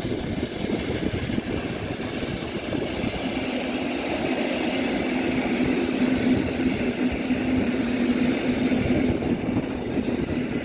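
Electric multiple-unit train running past on a station track: steady rolling noise with a low steady hum that sets in about three seconds in and holds until near the end.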